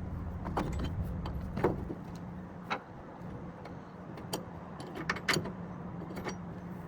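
A vehicle engine idling with a steady low hum, under scattered sharp metallic clicks and knocks.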